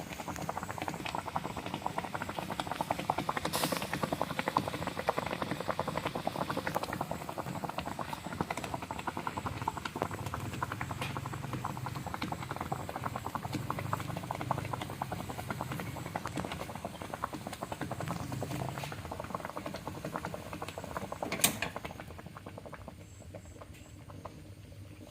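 Food cooking in a pan, a dense, continuous crackle and pop of frying. One sharp louder click comes near the end, after which the crackling is quieter.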